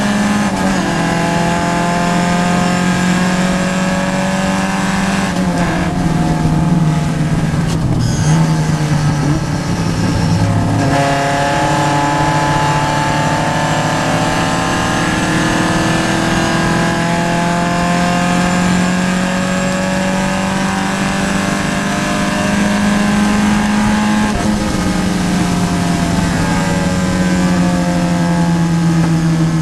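Vintage Triumph racing car's engine running hard under load, heard from inside the cockpit. The engine note falls and climbs again several times between about five and eleven seconds in, as through gear changes and a corner, then holds steady with slow rises and falls.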